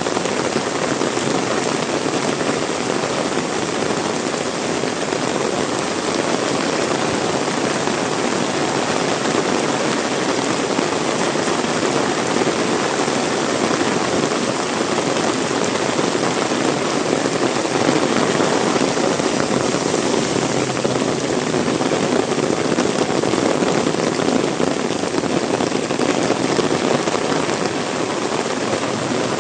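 Heavy rain pouring steadily: a dense, even hiss of drops hitting the ground and surfaces, swelling a little past the middle.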